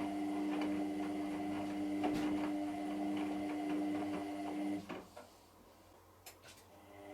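Hotpoint Extra WMXTF742K washing machine running its wash cycle: a steady motor hum with light clicking. The hum stops about five seconds in and starts again near the end, as the drum pauses between turns.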